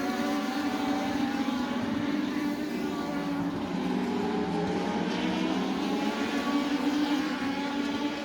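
INEX Legends race car engines, Yamaha motorcycle units, running at speed on a short oval, their pitch rising and falling as the cars go through the turns and straights, with more than one engine heard at once.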